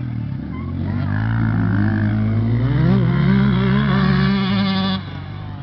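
Motocross dirt bike engine accelerating hard, its pitch climbing, dipping briefly at a gear change and climbing again, then dropping away suddenly near the end.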